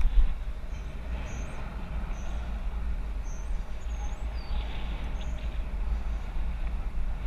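Wind buffeting the camera's microphone on a moving bicycle, a steady low rumble, with several short high chirps from small birds scattered through it.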